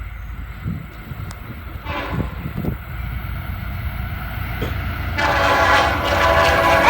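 Diesel freight locomotive approaching with a low rumble that grows louder, then its air horn sounding about five seconds in: a loud, steady chord of several notes held.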